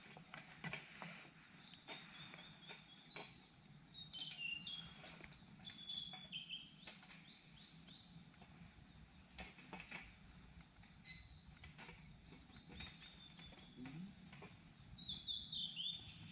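A songbird singing three quick phrases of sweeping high notes, with faint scattered clicks and a low steady hum underneath.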